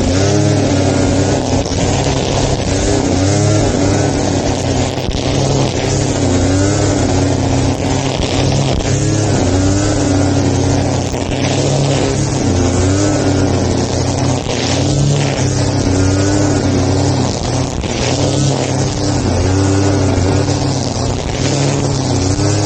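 Small petrol engine of a grass-cutting machine running steadily under load, its pitch rising and dipping every second or two as it cuts.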